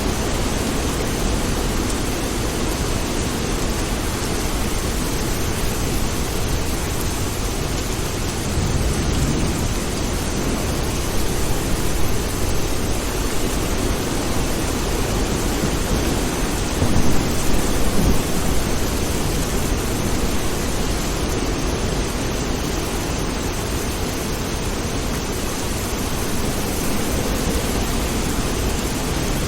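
Steady heavy rain with low rolls of thunder swelling up a few times, strongest about two thirds of the way through.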